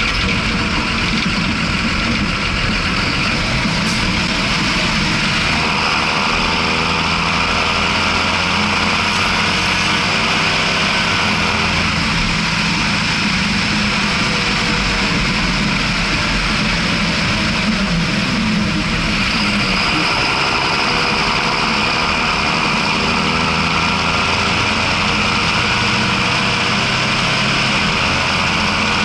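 John Deere 6620 tractor's six-cylinder diesel engine running steadily while hauling two trailers, its note shifting a few times as engine speed or load changes.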